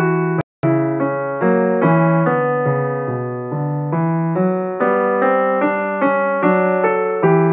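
Background piano music: a steady run of single notes and chords, with a brief dropout about half a second in.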